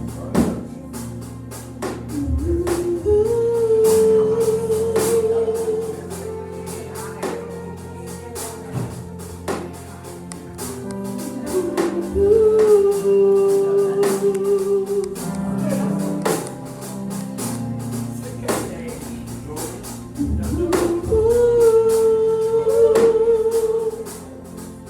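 Gospel music: a singer holds three long notes, each lasting about three seconds, over sustained chords and steady percussion strikes.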